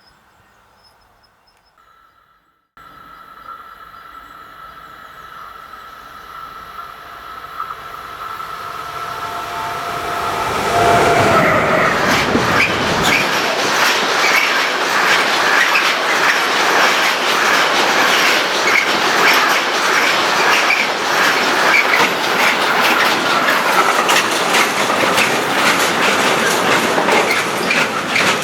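A train approaching and passing close by on the line, beginning with a rising rumble. A steady whine from the train drops in pitch as it comes alongside, and a long stretch of loud wheel clatter on the rails follows.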